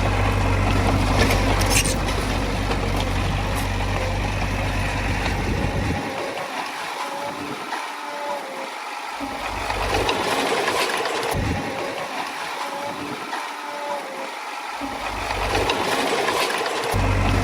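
Heavy earthmoving machinery's diesel engine running steadily. Its deep low rumble cuts out abruptly twice in the middle and returns near the end.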